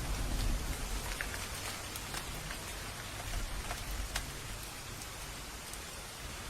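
Steady rain falling, with individual drops ticking sharply over the even hiss and a low rumble in the first second or so.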